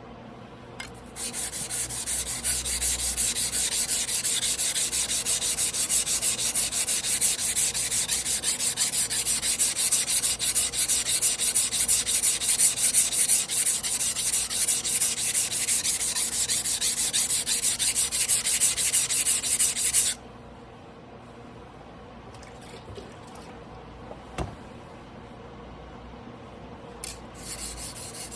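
Tojiro Damascus carbon-steel yanagiba (300 mm sashimi knife) being hand-sharpened on a whetstone: a steady scraping of rapid repeated strokes of steel across stone that stops abruptly about twenty seconds in.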